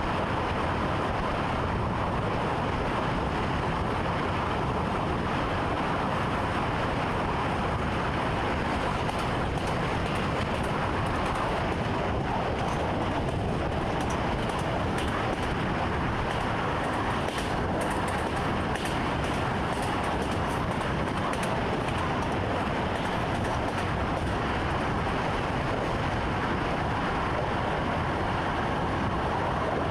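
Train running steadily, heard from inside the driver's cab: a constant rumble and rush, with faint light clicks and ticks in the middle stretch.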